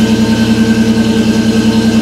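1990 Mustang GT's 5.0-litre V8 idling steadily, with a quick even pulse and a constant hum over it.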